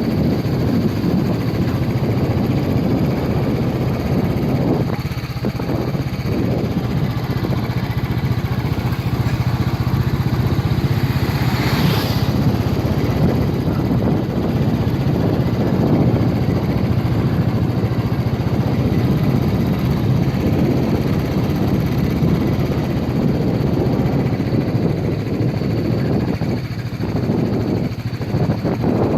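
Motorcycle engine running steadily while riding, with road and wind noise; a brief louder rush about twelve seconds in.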